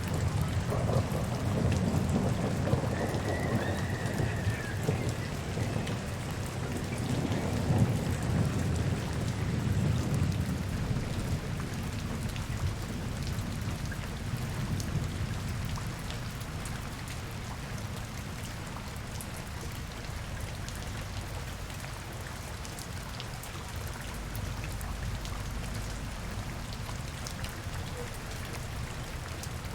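Steady rain falling on hard surfaces, with a dense patter of drop ticks. A low rumble underneath is loudest over the first ten seconds or so, then eases.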